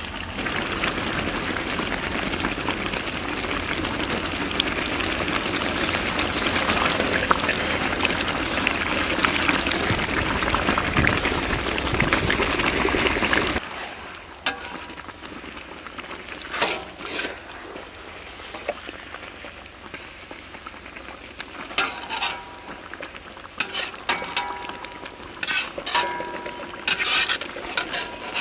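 Chicken cooking: a steady sizzling hiss with crackles for about thirteen seconds, which cuts off suddenly. After that come quieter, scattered short knocks and clinks.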